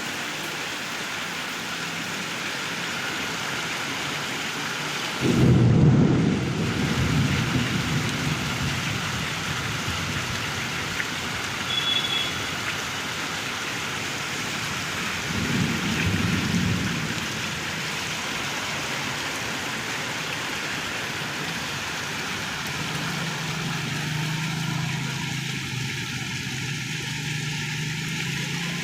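Heavy rain falling steadily, with thunder rumbling twice: a loud roll that breaks in suddenly about five seconds in, and a weaker one about ten seconds later. A low hum comes in near the end.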